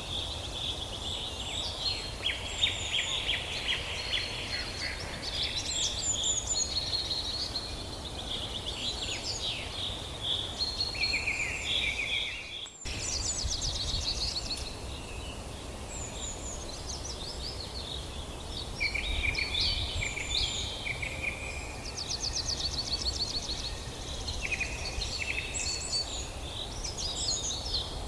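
A chorus of several songbirds chirping and trilling in a forest, over a steady low background rumble. All sound cuts out for an instant about halfway through.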